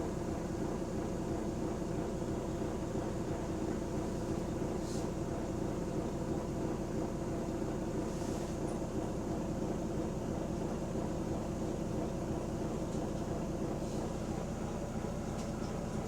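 Volvo B9TL double-decker bus running with a steady engine drone, with short air hisses about 5 and 8.5 seconds in and fainter ones near the end.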